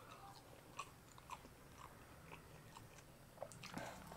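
A person chewing a mouthful of rice and semur jengkol close to the microphone: faint, scattered wet mouth clicks and smacks, with a denser cluster near the end as another handful goes into the mouth.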